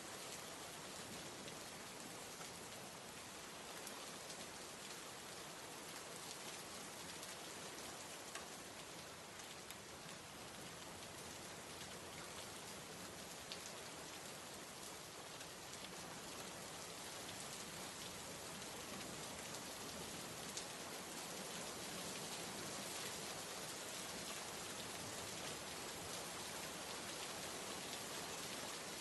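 Steady rainfall, a dense hiss of drops with scattered individual drop ticks, growing slightly louder in the second half.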